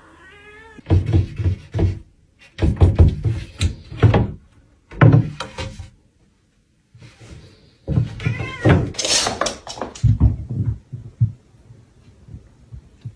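A domestic cat meowing, one meow at the start and more about eight seconds in, between loud knocks and thumps.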